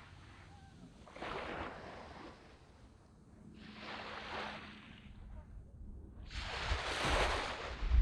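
Small waves washing up onto a sand beach in three surges: a small one about a second in, another around four seconds, and the largest from about six seconds in. Each wash rises and then hisses away.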